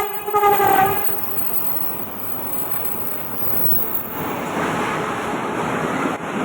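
Train horn sounding a chord of steady tones that cuts off about a second in, followed by the steady rushing rumble of the train's cars running past on the rails.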